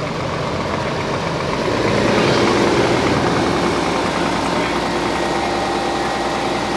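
Heavy vehicle engine running steadily close by; it grows louder about two seconds in, then holds at a steady pitch.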